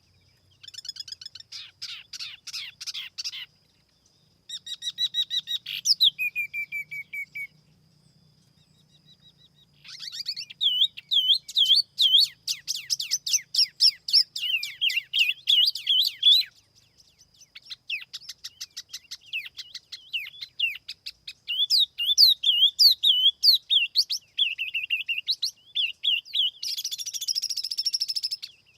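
A tiểu mi songbird singing: phrases of rapid chirps, repeated looping whistled notes and fast trills, broken by short pauses, in a clean lure-call recording.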